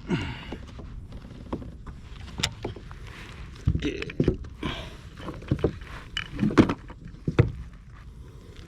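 Irregular knocks and thumps against a kayak hull, with some splashing of water, as gear or a catch is handled on board.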